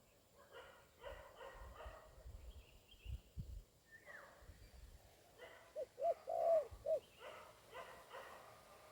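Spotted dove (tekukur) cooing: a short phrase of four arched notes about six seconds in, the loudest sound here. A dog barks at intervals in the background.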